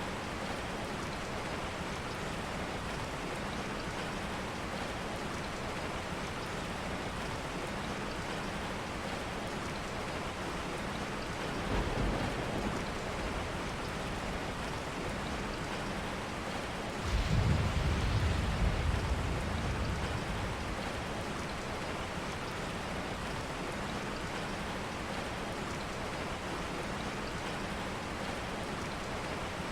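Steady rain. Two low rumbles rise out of it: a short one about twelve seconds in and a longer, louder one a few seconds later.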